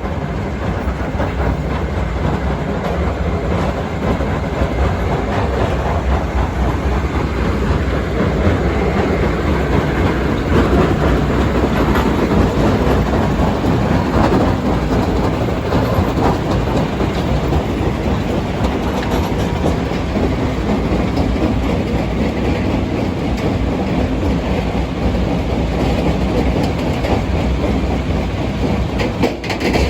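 Mobile rock-crushing and screening plant running under load, crushing and sorting stone: a loud, steady, dense mechanical noise with no break.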